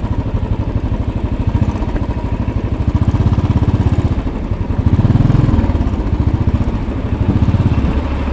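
Royal Enfield Bullet 500's single-cylinder four-stroke engine running under way with an even, pulsing beat. It swells briefly a few times as the throttle opens.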